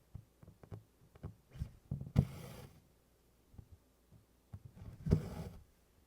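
Hand embroidery at work: the needle ticks softly as it pierces 24-count Congress cloth, and twice, about three seconds apart, the floss is drawn through the fabric with a short swish.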